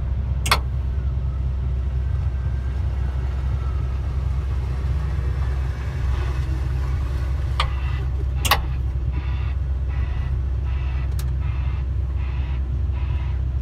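Large dump truck running with a steady low rumble, with a few sharp knocks and clicks over it.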